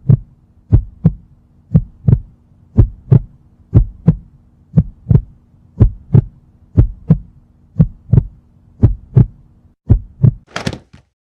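Heartbeat sound effect: pairs of low lub-dub thumps, about one pair a second, over a faint steady hum. It stops shortly before the end, followed by a brief hiss.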